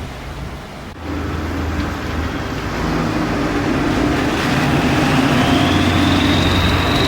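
A vehicle running steadily with a low hum. About halfway through, a high whine rises in pitch and then holds.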